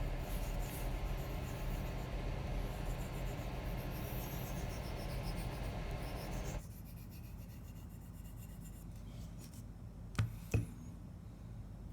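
Spyderco Lil Native's S30V blade stroked across a fine Spyderco ceramic sharpening stone: a steady scraping that stops abruptly about halfway through. Two light clicks follow near the end.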